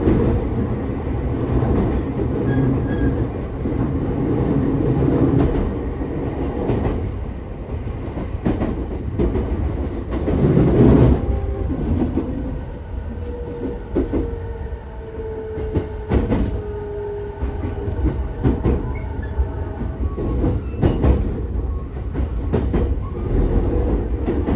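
Running noise heard inside a JR East E217 series electric commuter car: a steady rumble of wheels on rail with regular clicks from the rail joints. A louder rush of noise comes about ten seconds in, and a faint whine slides down in pitch around the middle.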